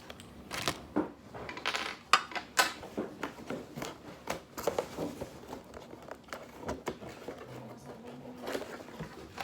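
Scissors snipping through toy packaging, with the packaging crinkling and rustling as it is handled: a run of irregular sharp clicks and rustles, loudest about two seconds in.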